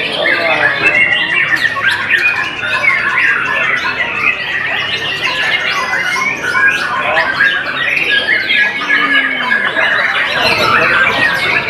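White-rumped shama (murai batu) singing a continuous, rapid string of varied notes, whistles mixed with harsher chattering calls.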